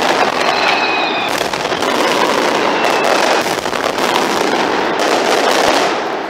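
Aerial fireworks display: a dense, continuous barrage of shell bursts and crackling stars, tailing off near the end.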